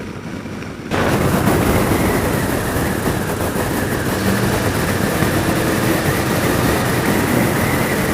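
Motorcycle riding at road speed: steady wind rush on the helmet microphone with the Yamaha FJR1300's inline-four engine running underneath. It cuts in abruptly, loud, about a second in.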